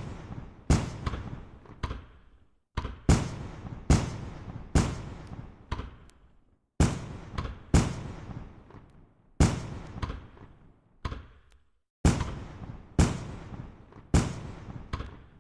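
Aerial firework shells bursting one after another, about one or two sharp bangs a second, each trailing off in a decaying echo.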